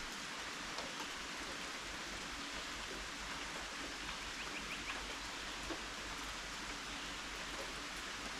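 Steady rain falling, an even hiss with a few faint drop clicks.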